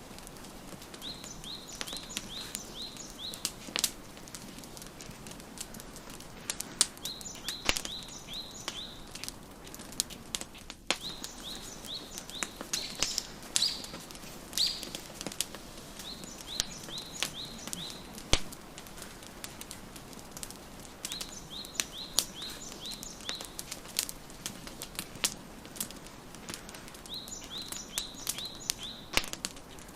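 Wood fire crackling with frequent sharp pops and snaps. A songbird keeps singing short phrases of quick, repeated chirps, one phrase every few seconds.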